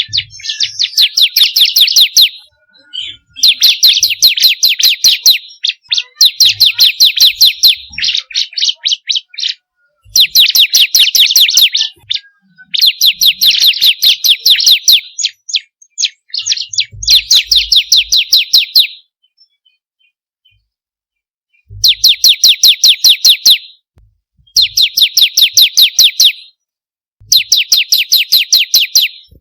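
Bar-winged prinia (ciblek kristal) song: phrases of rapid, sharp, evenly repeated notes, about ten a second, each phrase lasting a second or two and separated by short pauses, with one longer pause about two-thirds of the way through.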